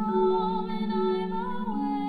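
Music: a marimba sustaining low notes with rapid rolls beneath one long held sung note, the bass note shifting near the end.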